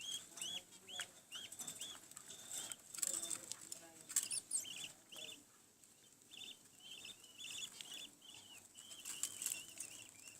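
Budgerigar chicks' begging cheeps as the mother budgie feeds them: a rapid run of short high chirps, several a second, with brief scratchy rustles in the first half.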